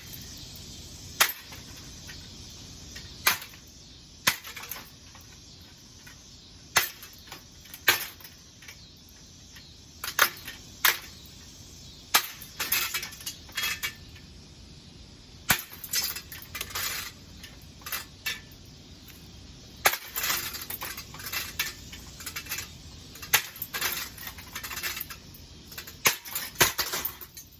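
A ceiling fan being smashed. Sharp metallic impacts come every second or two at first, then bursts of clattering and rattling as parts break and knock together.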